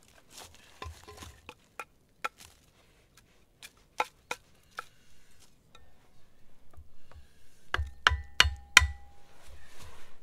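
Firewood being split by hand: scattered light taps and knocks, then four loud knocks in quick succession about eight seconds in, the last leaving a short metallic ring.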